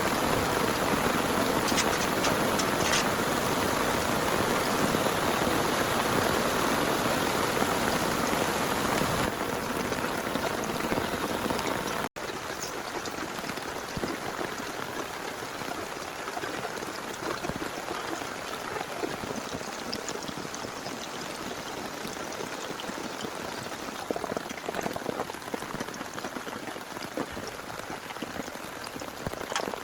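Heavy rain falling steadily. About twelve seconds in it cuts abruptly to softer rain with scattered individual drops.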